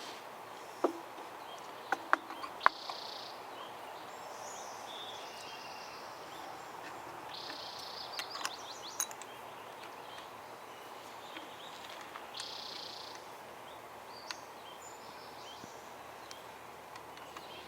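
Faint outdoor ambience with insects chirping in short repeated bursts. A few sharp clicks of small metal parts being handled and fitted come about a second in, around two to three seconds, and again around eight to nine seconds, as the clutch sleeve and drum are slid onto the chainsaw's crankshaft.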